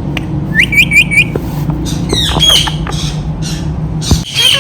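Indian ringneck parrot calling: a quick run of four rising chirps about half a second in, then harsher squawks around two seconds in and again near the end. A steady low hum runs underneath and stops shortly before the end.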